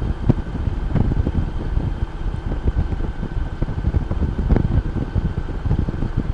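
Wind buffeting the microphone on a moving Honda Goldwing motorcycle, a constant low rumbling rush with the engine running underneath.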